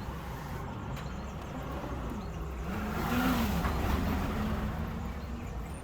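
Car driving, with a steady low engine and road rumble; the engine note rises and falls about three seconds in.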